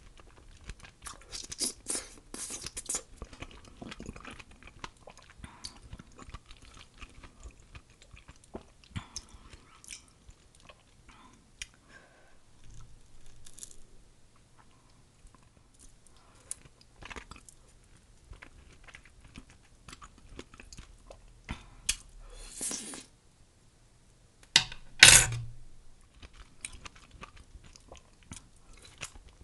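Close-miked chewing of soft mango slices: wet, smacking mouth sounds and small clicks, busiest in the first few seconds. Two louder wet bursts come near the end, the second the loudest.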